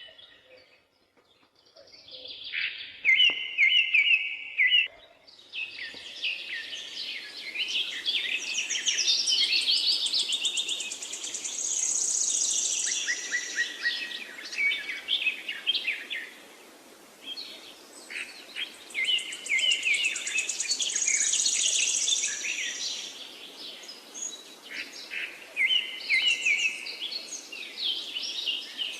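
Birds singing: many overlapping quick chirps and trills, some high and piercing, over a faint steady hiss. It starts quietly and fills in after about two seconds.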